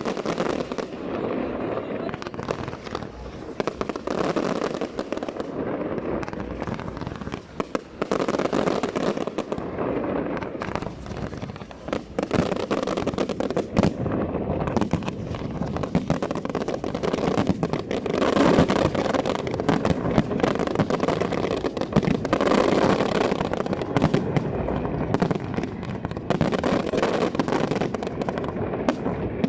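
Fireworks display: a dense, continuous barrage of bangs and crackles, getting louder and busier from about twelve seconds in.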